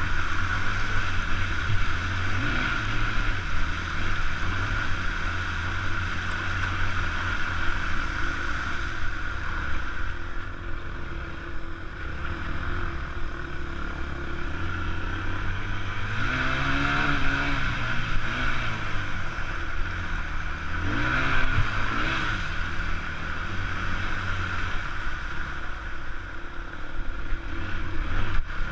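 Enduro dirt bike engine running at low revs under a steady rushing noise, revving up and back down twice, about halfway through and again a few seconds later.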